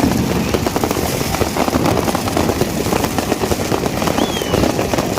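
New Year's Eve fireworks and firecrackers going off all around: a dense, unbroken crackle of many bangs and pops, with a short falling whistle about four seconds in.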